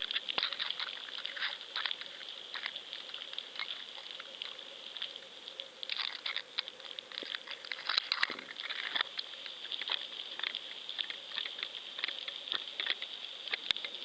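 Water lapping and pattering against a kayak hull, with scattered small clicks and ticks over a steady high hiss.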